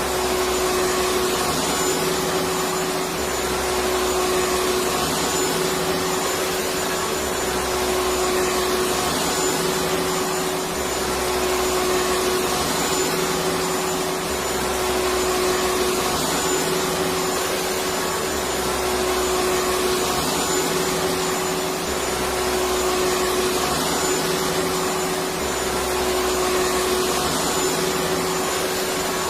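Electric vacuum cleaner running continuously: a steady rushing whir with a constant motor hum, its low end gently swelling and fading about every two seconds.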